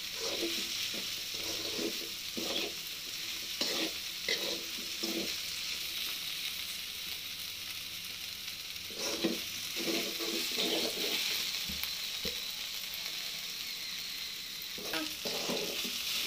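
Chopped okra sizzling in a little oil in a metal kadai, with a metal spatula scraping the pan and turning the pieces in runs of strokes. The stirring pauses twice, leaving only the steady sizzle. The okra is still green, early in frying toward brown.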